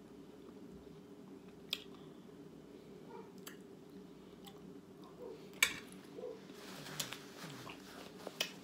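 Close-up eating sounds: soft chewing of meat, with a few sharp clicks scattered through, the loudest about five and a half seconds in, over a steady low hum.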